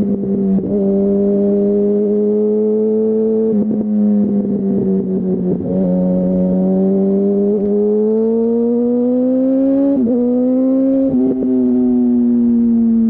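2008 Yamaha R1's inline-four engine through a Termignoni full exhaust, running steadily under way. The pitch climbs gradually and then drops briefly a few times, around half a second, three and a half, ten and eleven seconds in.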